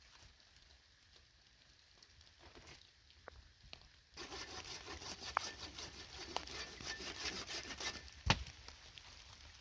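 Wood being cut or rasped with a hand tool: a dense rasping starts suddenly about four seconds in and runs for about four seconds, followed by a single sharp knock.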